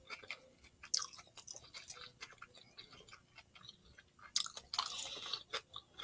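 Close-up eating sounds of a Philly cheese steak sub being bitten and chewed: wet chewing clicks throughout, a sharp loud bite about a second in, and a longer, louder bite into the roll about four and a half seconds in.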